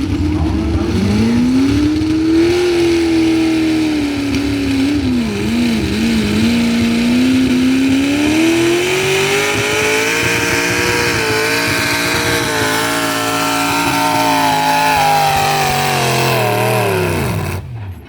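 Pulling truck's engine run hard under load at a truck pull. The revs waver and dip a few seconds in, climb and hold high, then fall away near the end as the throttle comes off.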